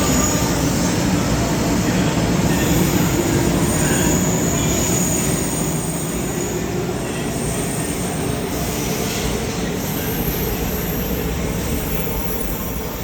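500 series Shinkansen train pulling out of a station, its wheels and running gear making a steady rumble with a faint high whine. The sound eases slightly about halfway through as the train moves away.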